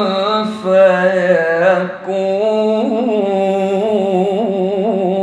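A man reciting the Quran in the melodic tajwid style, drawing out long vowels with ornamented rises and falls in pitch, with a brief break about two seconds in.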